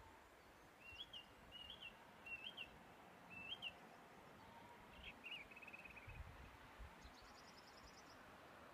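Faint birdsong over quiet open-air hiss: a small bird gives a short rising-and-falling chirp four times, then a quick trill, and a higher buzzy trill near the end. A brief low rumble comes about six seconds in.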